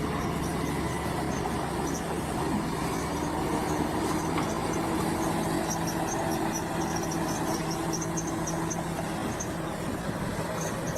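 Heavy earthmoving machine's diesel engine running steadily with a low, even hum.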